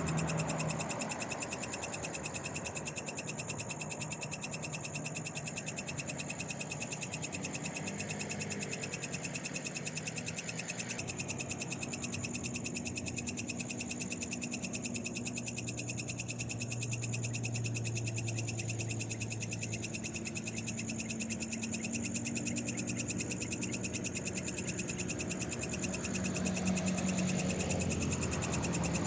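Night chorus of frogs calling steadily, with a continuous high-pitched ringing of insects above it.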